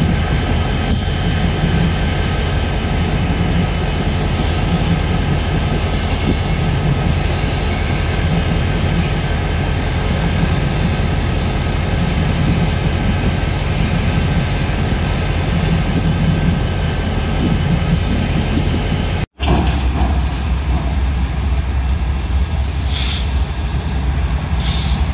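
Freight train rolling past: covered hopper cars clattering by with a steady high squeal from the wheels. After a cut there is the deeper rumble of a BNSF diesel-electric locomotive leading autorack cars, with two brief high squeaks near the end.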